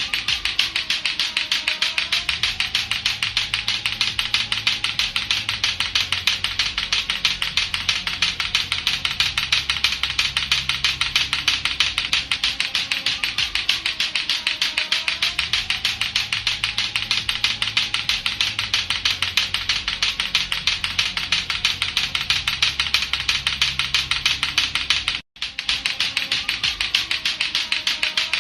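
Latto-latto clackers, two hard plastic balls on a string knocking together in a rapid, steady clacking, with a brief break about three-quarters of the way through. A faint looping background tone runs underneath.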